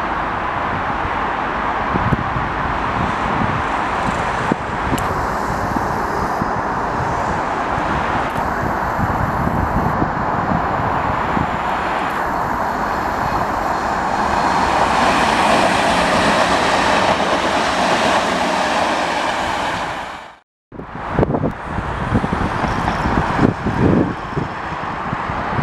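Electric multiple unit train running along the track, its rail and motor noise building to its loudest as it comes past, with wind buffeting the microphone. The sound cuts off abruptly about twenty seconds in, and gusty wind noise follows.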